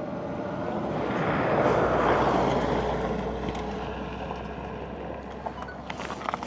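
Motorcycle engine running under way, heard from the rider's helmet microphone with wind rush over it. The sound swells to its loudest about two seconds in, then eases off.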